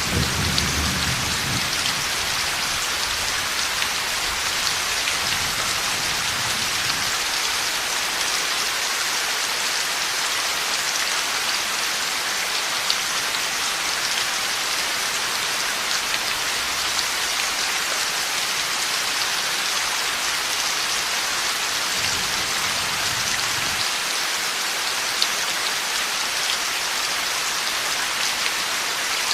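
Heavy steady rain pouring down, with low rumbles of thunder dying away in the first second or two and faint rumbles again around a quarter of the way in and near the last quarter.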